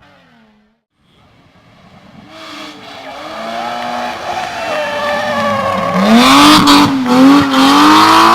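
Hillclimb race car's engine approaching and growing steadily louder, then revving hard close by, its pitch dipping and climbing again as the driver lifts and gets back on the throttle, with several sharp cracks in the last couple of seconds.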